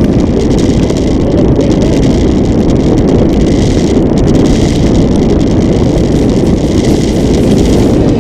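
Strong wind buffeting the microphone: a loud, steady rumble that gusts slightly without letting up.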